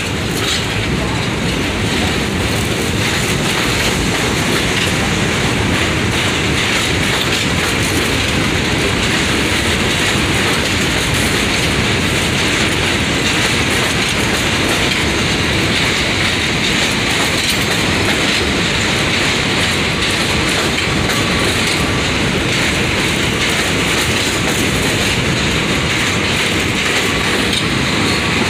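Train running steadily on the rails: a loud, continuous rush of wheel and track noise that stays even throughout.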